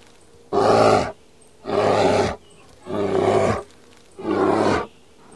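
Grizzly bear roaring: four short, rough roars, each about half a second long and about a second and a quarter apart.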